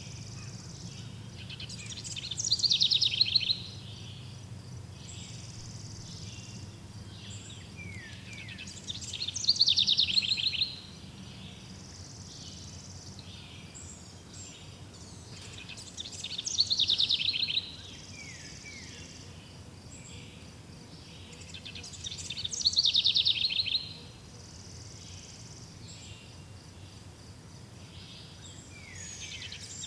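A songbird singing the same short, descending, trilled phrase about every six or seven seconds, five times in all, over a steady background of faint insect-like chirping.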